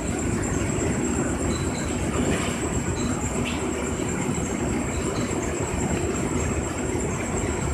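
Green tea sorting machine shaking steadily, a continuous rattle and rumble with a faint steady high whine.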